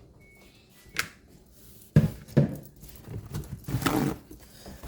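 Thuds and knocks from cleaned pig feet being put into a cooking pot: a sharp click about a second in, a heavy thud at about two seconds with a second one just after, and a rougher clatter near four seconds.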